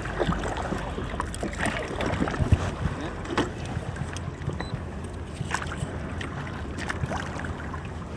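Water lapping and sloshing around a fishing kayak, with scattered small knocks and clicks against the hull.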